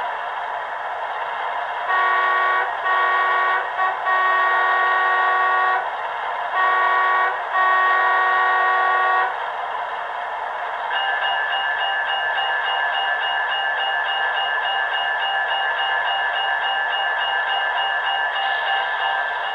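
Märklin NYC ALCO PA-1 model locomotive's sound decoder playing a diesel air horn in a run of blasts of varying length, long and short, through its small speaker over a steady running noise. From about halfway a different steady tone with a single pitch sounds on to the end.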